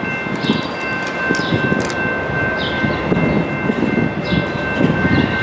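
A train running, a continuous rumble with a steady high-pitched whine over it.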